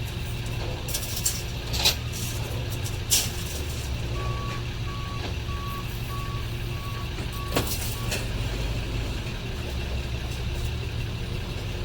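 A vehicle engine idling with a steady low hum. About four seconds in, a high electronic beep sounds seven times, about two a second, like a vehicle's reversing alarm. A few sharp knocks come before and during the beeping.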